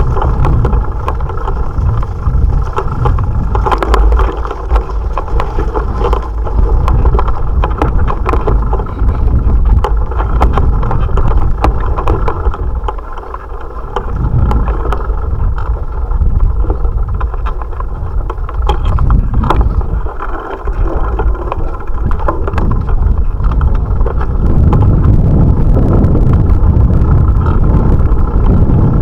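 Wind buffeting an action camera's microphone on a moving bicycle, with frequent small rattles and clicks from the bike and mount over the road surface.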